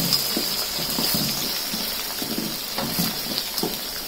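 Chopped onions, dried red chillies and peanuts sizzling in hot oil in an aluminium pot, with a steady hiss and the scrape and knock of a wooden spatula stirring them: the tempering for tamarind rice, fried until the onions brown.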